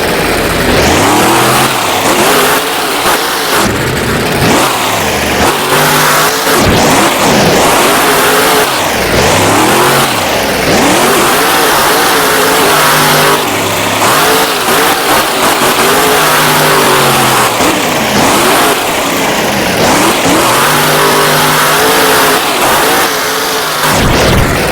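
Monster truck engine revving hard over and over, its pitch climbing and dropping again every couple of seconds through the freestyle run.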